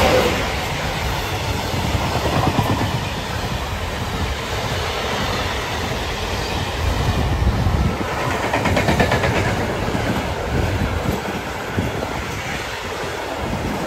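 Electric freight train passing close by: the second of two coupled electric locomotives goes past at the start, then a long string of intermodal wagons loaded with semi-trailers rolls by. The wagons' wheels rumble and clatter over the rail joints.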